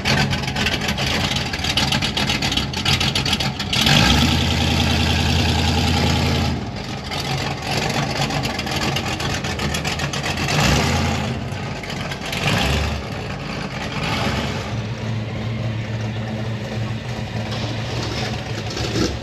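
Car engine running with a low, steady rumble. It gets markedly louder for about two and a half seconds around four seconds in, then swells briefly a couple more times.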